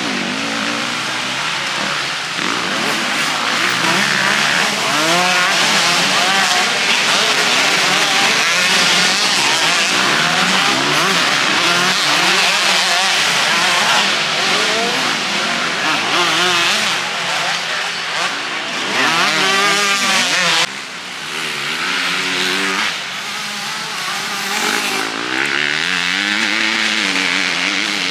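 Several motocross bikes revving hard on the track, their engine pitch repeatedly climbing and dropping as riders open and close the throttle through the sections and pass by, often more than one at a time. The sound changes abruptly about two-thirds of the way through.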